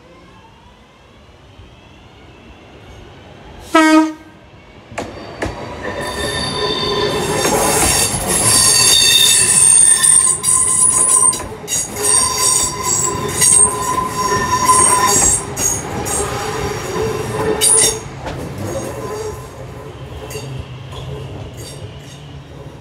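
Class 323 electric multiple unit sounding one short horn blast about four seconds in, then passing close on curved track with high-pitched wheel squeal and wheels clicking over rail joints. The sound fades after about eighteen seconds as the train draws away.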